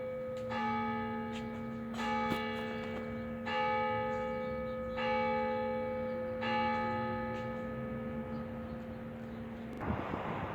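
A large bell tolling, struck five times about a second and a half apart, each stroke ringing on into the next before the sound cuts off near the end.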